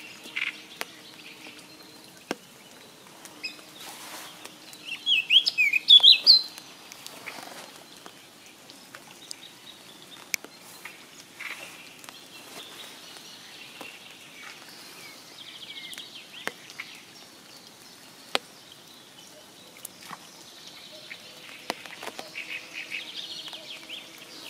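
Songbirds singing in light spring rain, with raindrops ticking close by at irregular moments. A loud run of quick, sharp chirps comes about five to six seconds in, and fainter trills follow later.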